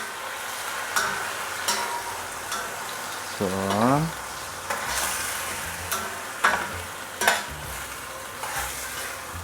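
Chicken frying with sautéed onion and garlic, sizzling as it is stirred, with the utensil knocking against the pan about six times. A short rising tone sounds a little over three seconds in.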